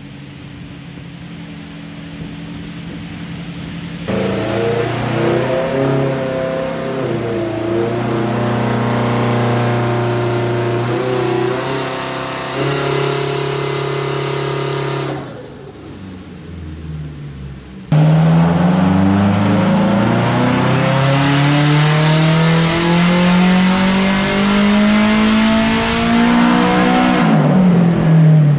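Turbocharged SR20DET engine of an S13 Silvia running hard on a chassis dyno: first held at steady revs that step up and down, then a long, steady climbing pull through the rev range.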